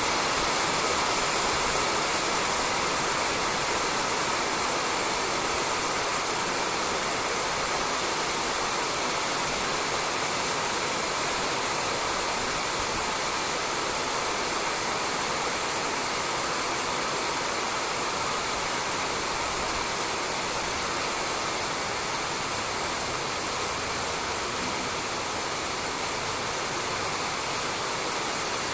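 Steady rain falling on a roof, a dense, even hiss of drops with no single drips standing out.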